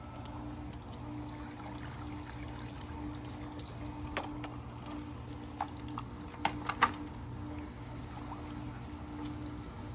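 Water trickling and pouring from the pool vacuum hose as it is handled, over a steady low hum from the running pool pump. A few sharp clicks or knocks come between about four and seven seconds in, the loudest near seven seconds.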